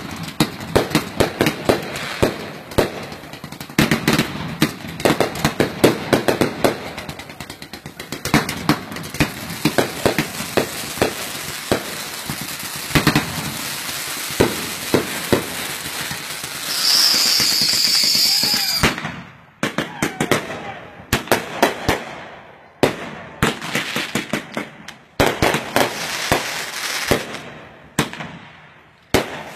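Consumer fireworks going off in rapid succession: dense bangs and crackling, with a loud high hiss for about two seconds past the middle. In the last third the bangs are fewer and spaced apart.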